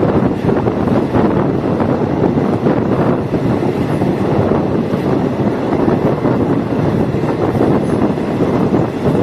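Diesel multiple unit train running along the track, heard from on board as a steady, loud rumble of wheels and engine.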